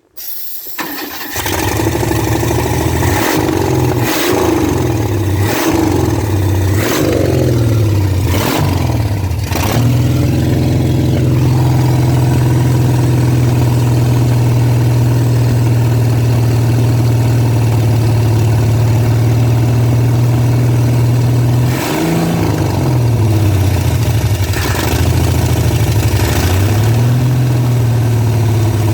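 Car engine catching and running on its first start-up, its revs rising and falling for about ten seconds with several sharp pops, then settling to a steady fast idle and being blipped a couple of times near the end. The engine still runs rough, which the owner puts down to a faulty distributor cap and rotor button.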